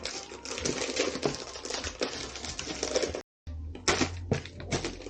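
Rapid clicking and clattering of small plastic LEGO pieces being handled and sorted.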